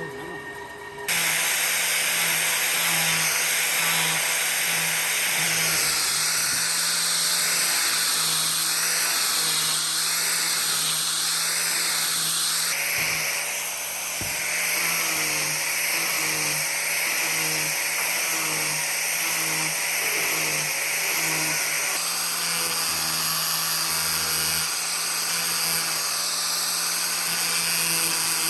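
An electric power tool working wood runs continuously, cutting in abruptly about a second in, with its pitch wavering for several seconds in the middle.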